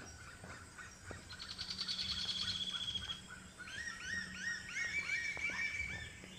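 Birds calling: a fast, high trill lasting about two seconds, then a run of short rising notes repeated about three times a second through the second half.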